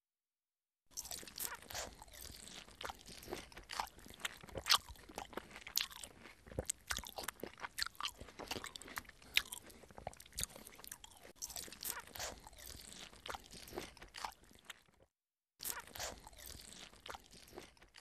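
A mithun (gayal) chewing food taken from a hand, with irregular crisp crunches. It starts about a second in and pauses briefly near the end.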